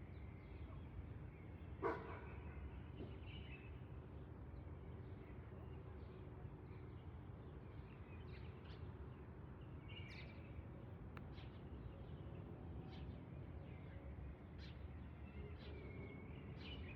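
Faint outdoor ambience: a steady low rumble with scattered short, high chirps and one sharp click about two seconds in.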